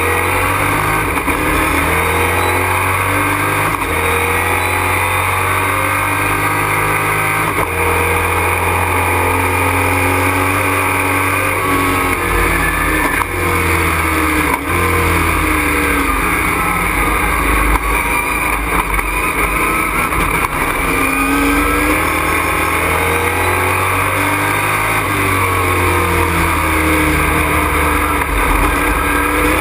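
Race truck's engine heard from inside the cockpit at race pace: loud and continuous, its pitch climbing as it revs up and dropping off on lifts and downshifts, again and again.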